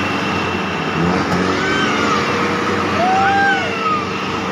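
Motor vehicle engine running under load, with a pitched whine that rises, holds and falls again in repeated surges about every two seconds.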